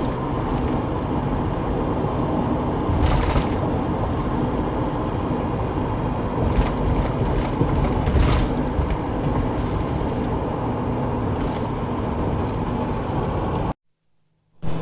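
Engine and road noise of a moving vehicle, heard while riding in it, with a few brief knocks or rattles. It cuts out abruptly for about a second near the end.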